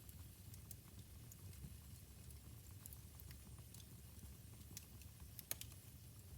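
Wood fire burning in a fireplace, quietly crackling with scattered sharp pops over a low rumble of the flames; the loudest pop comes about five and a half seconds in.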